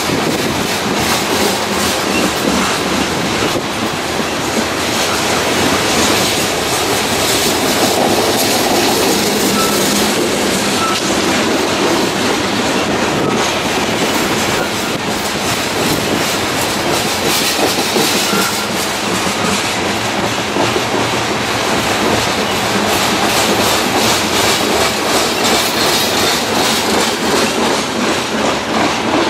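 Loaded coal hopper cars of a long freight train rolling slowly past, their steel wheels clacking steadily over the rail joints, with now and then a brief faint wheel squeal.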